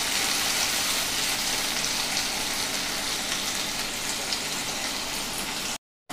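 Chopped onions, tomatoes and green chillies sizzling steadily in hot oil in a kadai, the hiss easing slightly. The sound cuts out abruptly for a moment near the end.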